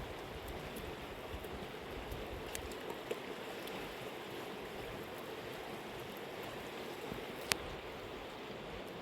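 Mountain river water running steadily, with one sharp click about three-quarters of the way through.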